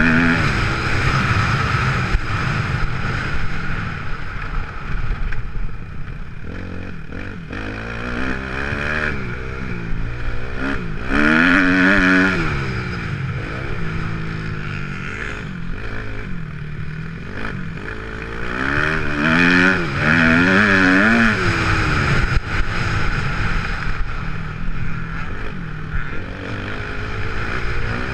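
Kawasaki KX250F's single-cylinder four-stroke engine revving hard and easing off again and again as the motocross bike rides the track. It is loudest in three long pulls, at the start, about eleven seconds in and about nineteen seconds in.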